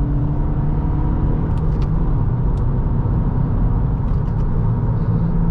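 Engine and road noise inside the cabin of a 2023 Acura Integra A-Spec, its turbocharged 1.5-litre four-cylinder running steadily while the car drives along.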